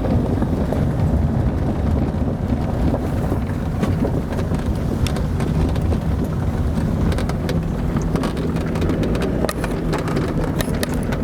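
Car driving, its engine and tyres giving a steady low rumble, with scattered sharp ticks and clatters from about halfway in.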